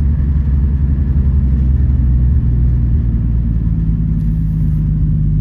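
Toyota Supra being driven, its engine running under way with a steady low note that shifts pitch about halfway through.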